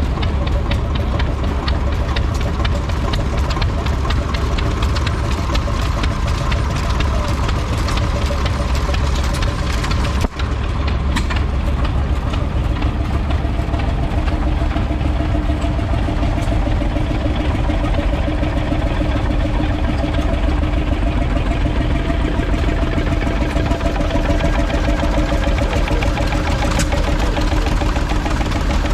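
Vintage stationary engine running steadily with a fast, even mechanical clatter. There is a brief drop about ten seconds in, and a steady hum joins after it.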